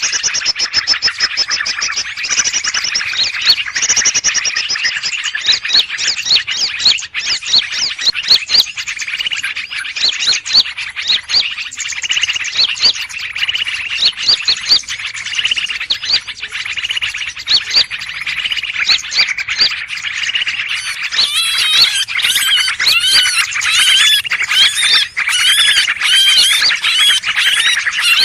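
Recorded bird-lure track ('suara ribut'): many small birds chirping and calling over one another in a dense, busy chorus, of the kind played to draw in greater green leafbirds. About 21 seconds in, the calls turn into sharper, wavering, higher phrases.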